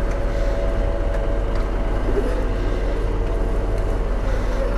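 Steady low drone of a river ferry's diesel engine, running evenly with a constant hum.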